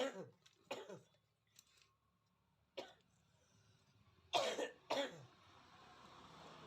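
A person coughing, about five short coughs spread over several seconds, the last two close together. A faint steady hiss follows near the end.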